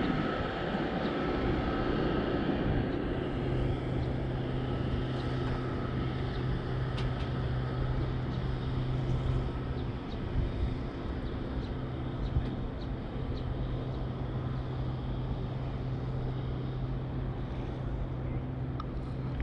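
A steady low engine drone that sets in about three seconds in and holds on, over wind and water noise.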